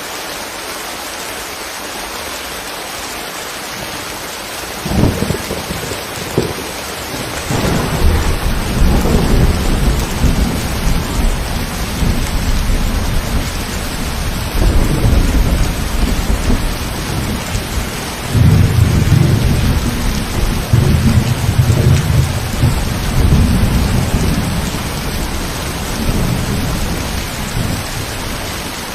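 Steady rain falling, then thunder: a sudden crack about five seconds in, followed by long low rumbles that swell and fade again and again over the rain.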